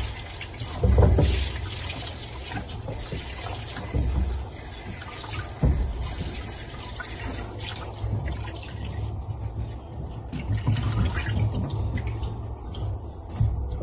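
Water running and trickling, with scattered small clicks and a few dull knocks.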